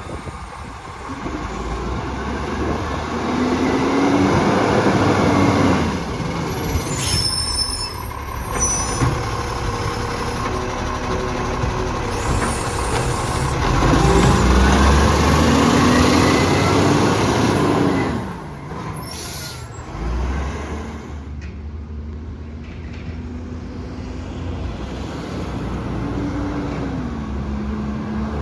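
Garbage truck at work: its diesel engine revving up and falling back several times, with short air-brake hisses in between.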